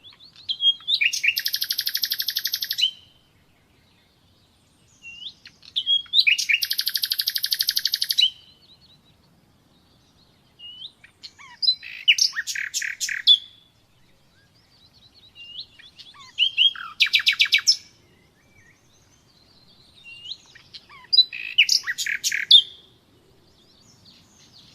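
A nightingale singing in five separate phrases a few seconds apart. The first two end in a long, very rapid trill; the later ones are built from a few loud whistled notes and quick clicks.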